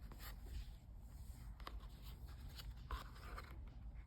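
Faint rustling and a few light clicks of a book being handled as its page is turned, with a short rustle about three seconds in, over a low steady hum of room noise.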